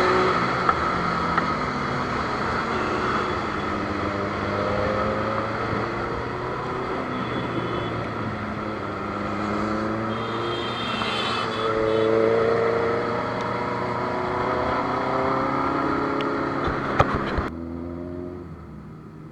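Several motorcycle engines running together, their pitches rising and falling as they change speed, over steady road and wind noise. Near the end the sound drops abruptly to a quieter engine.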